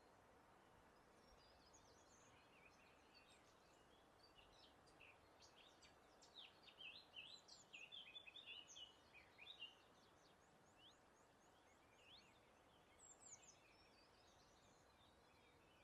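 Faint wild birdsong: several birds chirping and trilling in short, high notes, busiest in the middle, over a soft steady hiss of breeze.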